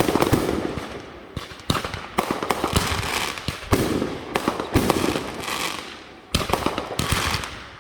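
Fireworks going off one after another: a string of sharp bangs, each trailing into a fading crackle, some landing less than half a second apart.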